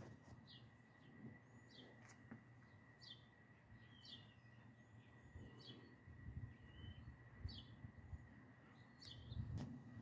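Faint small-bird chirps outdoors: short, high, downward-sliding calls repeating about once a second, over a low hum of outdoor background noise.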